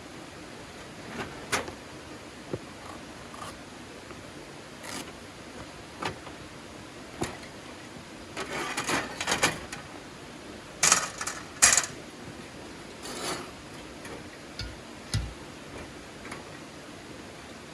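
Irregular knocks and clicks over a steady hiss, bunched together about eight to ten seconds in, with the sharpest pair about eleven seconds in.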